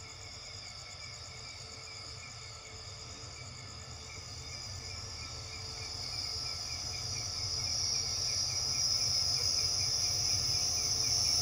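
Crickets chirping steadily while an approaching diesel-hauled train grows louder: a low rumble and a high steady squeal rise over the second half.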